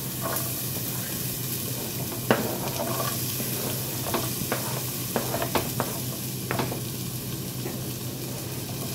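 Diced onion and red bell pepper sizzling steadily as they are scraped into hot oil in a frying pan, with a few sharp taps and scrapes of a wooden slotted spoon against the cutting board and pan in the middle of the stretch.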